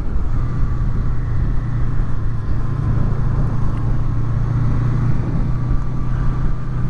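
Honda VFR800's V4 engine running steadily while riding, mixed with a steady rush of wind and road noise. The sound is picked up by helmet microphones covered with furry windshields.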